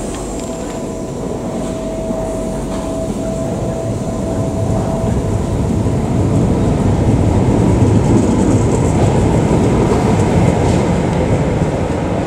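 Tyne & Wear Metro train running past along the platform, a steady rumble of wheels on rails that builds to its loudest about two-thirds of the way through. A thin steady whine sits over it for the first few seconds.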